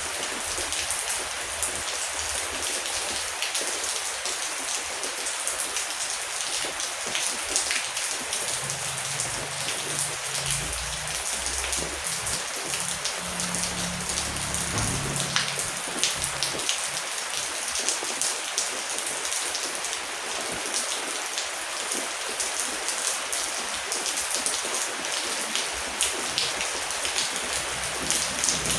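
Heavy rain falling steadily, with a dense hiss and many individual drops ticking. A low rumble comes and goes a few times.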